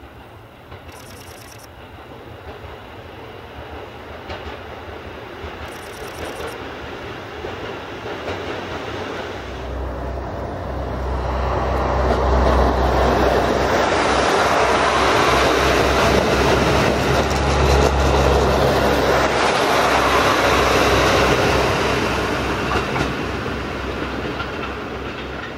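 KiYa 95 series track-inspection diesel railcar approaching and passing close by: diesel engine rumble and wheels running on the rails, growing steadily louder to a peak in the middle, then easing a little near the end.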